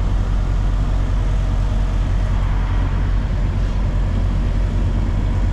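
Diesel engine running steadily at idle, a continuous low drone.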